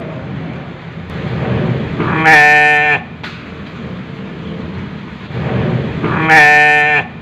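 Sheep bleating twice, each call under a second long and about four seconds apart, over a steady low rumble.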